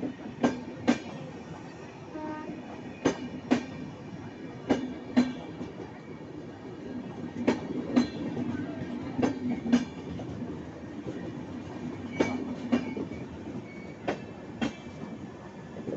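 Indian Railways express train's passenger coaches rolling past close by, their wheels knocking over a rail joint in clickety-clack pairs about half a second apart, a pair every couple of seconds, over a steady rumble.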